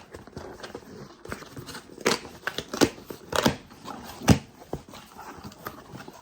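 Plastic packaging being handled and crinkled as a package is opened, giving irregular sharp crackles and snaps, the loudest about four seconds in.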